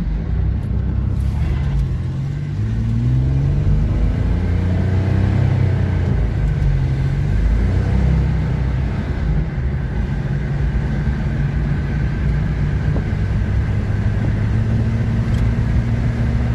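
1989 Chevy S10 Blazer's 4.3 L V6 engine under way: it climbs in pitch for a few seconds as the truck accelerates, drops back as the automatic transmission shifts up, then holds steady at cruising speed, with road rumble beneath.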